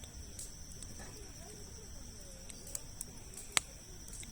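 Wood campfire of large logs crackling, with scattered small pops and one sharp, loud pop about three and a half seconds in, over a steady high insect drone.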